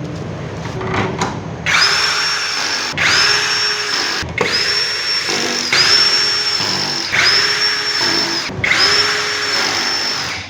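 Electric screwdriver running in six short bursts of about a second each, its motor whine starting and stopping with each run as screws are driven during battery pack assembly.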